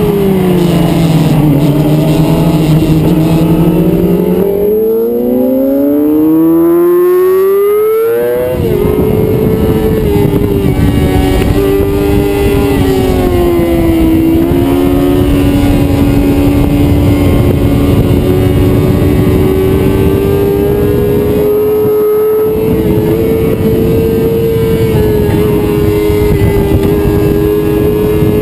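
Onboard sound of a 2006 Yamaha YZF-R6's inline-four engine on track: the revs fall as the rider slows, hold low briefly, then climb in a long rising sweep until a sudden drop about eight seconds in, after which the engine runs at high revs with a few short dips. Heavy wind rush over the microphone accompanies the fast running.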